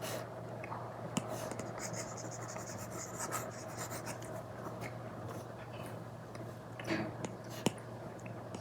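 Apple Pencil Pro strokes scratching across an iPad's paper-like matte screen protector, with a few sharp taps of the pencil tip, the loudest near the end, over a steady low hum.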